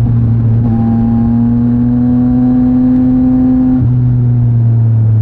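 Yamaha MT-09 SP's three-cylinder engine through a Mivv X-M50 aftermarket exhaust, heard from the bike while riding: a steady engine note that rises slowly under light throttle, then drops a little about four seconds in.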